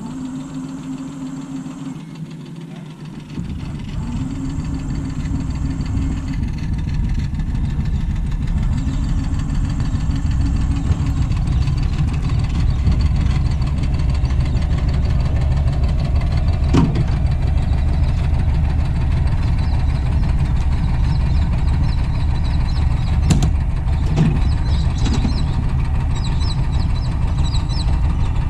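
An engine running with a steady low rumble that gets louder a few seconds in. Two sharp knocks come later on.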